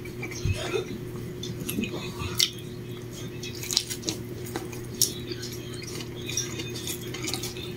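Someone eating a fried egg sandwich: chewing and mouth sounds with scattered small clicks and crackles, over a steady low hum.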